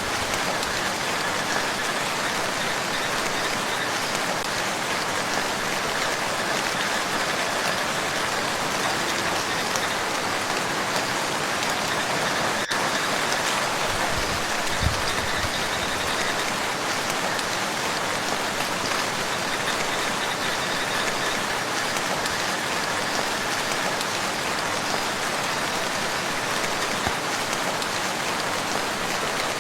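Steady rain falling on a lake, a dense even patter of drops on the water, with a couple of brief low thuds about halfway through.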